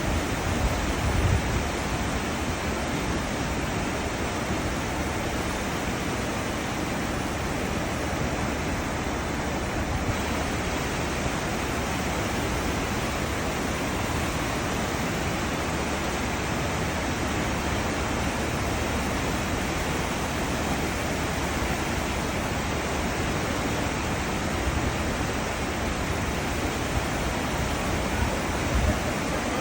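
Cruise ship's wake: churned seawater rushing and hissing in a steady, unbroken wash, with a few brief low rumbles about a second in and near the end.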